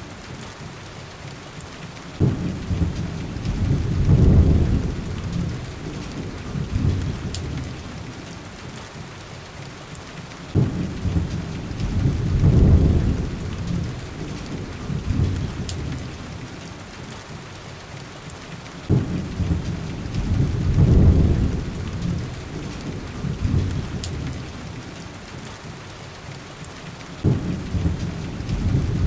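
Steady rain with low rolls of thunder about every eight seconds, each starting suddenly and swelling for a couple of seconds before dying away, and a few faint clicks.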